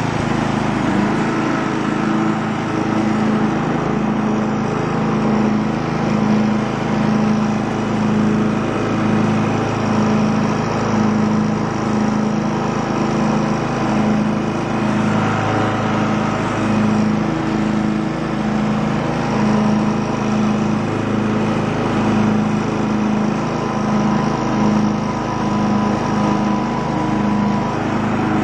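Craftsman lawn tractor's engine running at a steady speed, its hum wavering slowly and evenly.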